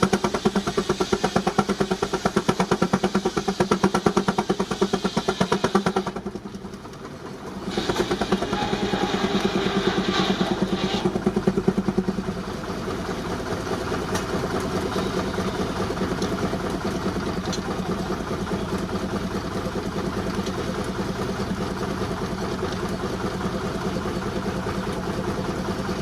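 A 19-65 Baker Uniflow steam traction engine runs under belt load driving a sawmill, with a fast, even exhaust beat. The sound drops out briefly about six seconds in, then resumes and settles a little steadier and quieter for the rest.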